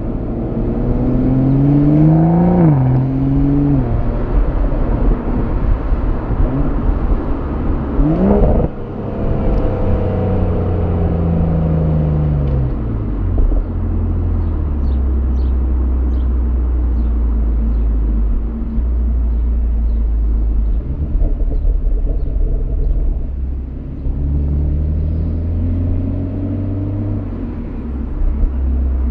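Exhaust of a 2020 BMW M340i Touring's 3.0-litre turbocharged straight-six in Sport+ mode, heard right at the tailpipe while driving at town speeds. The engine note climbs under throttle and drops sharply with an upshift about two and a half seconds in and again about eight and a half seconds in, then falls away as the car slows and settles to a low, steady rumble, with a short climb near the end.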